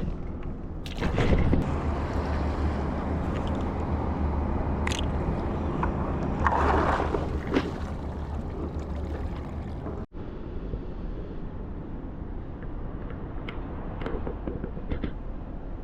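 Water sloshing and gurgling against a kayak hull, with wind rumbling on the microphone and scattered small knocks and clicks.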